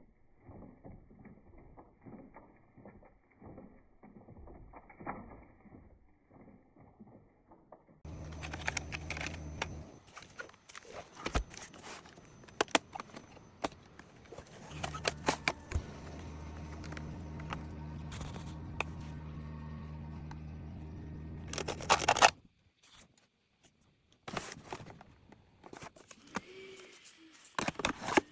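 Robot vacuum running, a steady motor hum with a hiss over it and frequent clicks and rattles. The sound cuts in and out several times.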